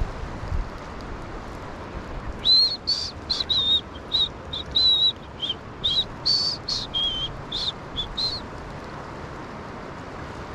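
A songbird singing a quick run of short, high whistled notes, about two or three a second, for around six seconds, starting a couple of seconds in. Steady wind and water noise runs underneath.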